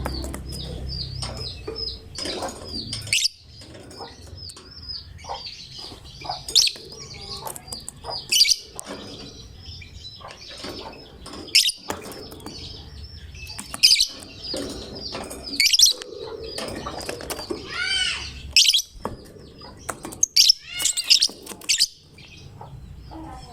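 Lovebird calling nonstop: a rapid run of short chirps broken by loud, shrill shrieks every second or two.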